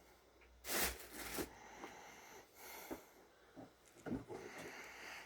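Handling noises: a loud rustle-like burst about a second in, then scattered light clicks and rustles.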